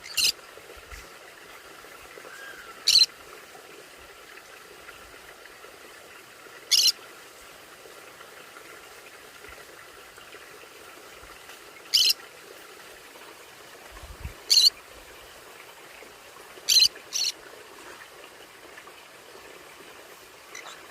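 Conure giving short, sharp, high-pitched calls, about seven of them at irregular intervals, with two in quick succession about three-quarters of the way in.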